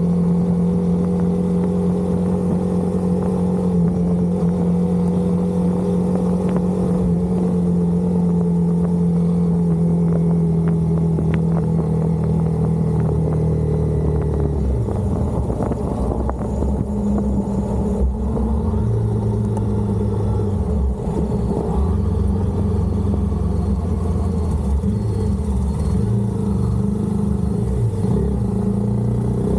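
Honda CBR250R's single-cylinder engine running under way. It holds a steady pitch for about the first half, then drops and rises in steps as the revs change.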